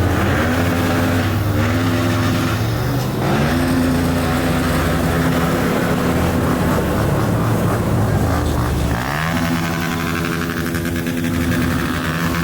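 Dirt bike engine running under throttle, its pitch repeatedly dropping and climbing as it revs, with a long rising rev about nine seconds in.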